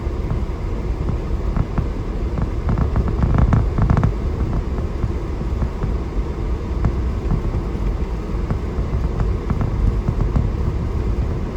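A vehicle driving on a snow-covered road, heard from inside the cabin: a steady low rumble of engine and tyres, with a few faint clicks or knocks about three seconds in.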